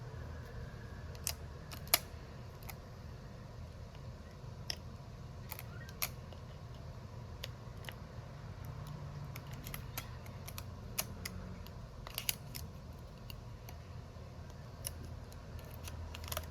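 Scattered sharp clicks and small taps from small repair tools working on a smartphone being opened for a screen replacement, the loudest about two seconds in, over a low steady hum.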